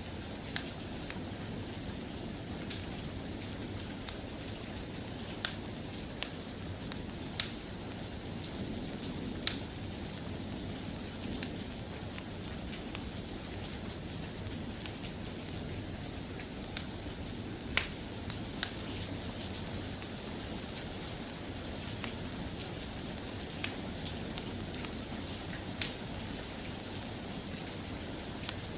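Steady, soft rain, with a dozen or so sharp ticks and pops scattered irregularly through it.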